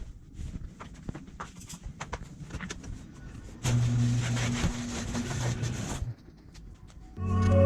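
Scattered light clicks and knocks, then a machine running with a low steady hum and hiss for about two and a half seconds, stopping abruptly. Music begins near the end.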